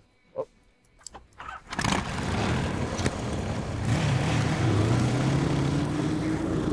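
A few clicks and a soft knock, then a motorcycle engine starts abruptly about two seconds in and keeps running steadily, its pitch rising a little near the end.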